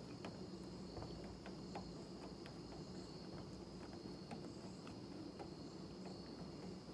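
Faint, scattered light clicks from the Saab 95's small golf-tee-shaped door lock knob being unscrewed by hand, over a steady faint high-pitched chirring like insects.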